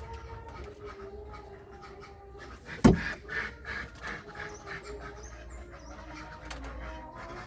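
Domestic pigeons cooing in a long, wavering, low call, with one sharp knock about three seconds in.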